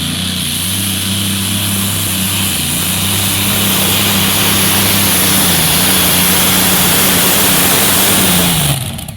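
Engine of a pulling vehicle running flat out under load while dragging the weight sled, loud and steady. Near the end the pitch drops as it comes off the throttle.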